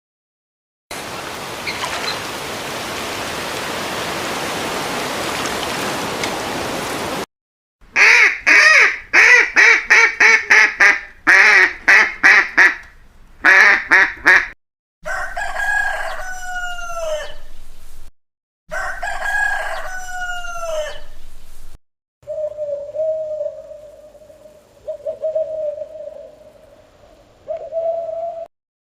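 A steady hiss for about six seconds, then chickens: a run of rapid clucks followed by a rooster crowing twice, each crow dropping in pitch at its end. Near the end comes a longer, steadier call.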